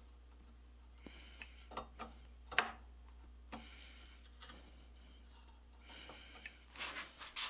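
Scattered light metallic clicks and taps, about ten spread unevenly, with faint brief scraping, as hand tools work at the rust-seized pivot bolt of a rivet forge's ash pit gate.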